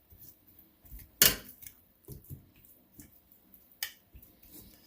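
Light clicks and knocks as chicken wings are set one by one into an air fryer basket with a kitchen utensil. The sharpest click comes about a second in and another near the end.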